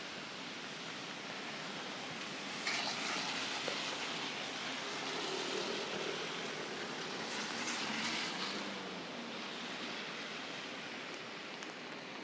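Steady hiss of rain falling on a city street, with two louder rushing swells, one about three seconds in and one around eight seconds in.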